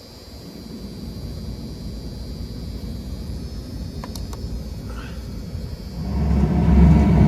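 Low, steady machine rumble that gets much louder about six seconds in.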